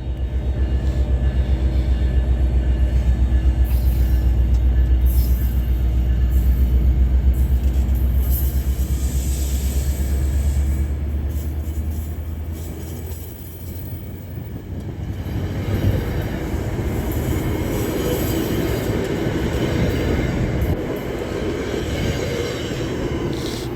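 Commuter train pulling out behind its PL42AC diesel locomotive: a loud, fast-pulsing low engine drone for about the first twelve seconds. It then gives way to the rolling rumble and wheel noise of the passenger cars moving along the track.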